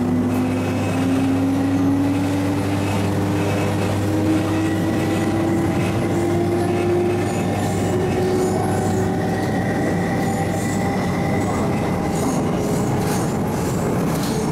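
Inside a refurbished MTR East Rail Line MLR electric train under way: the traction motors whine in several tones that rise steadily as the train accelerates, then level off, over a constant rumble of wheels on track.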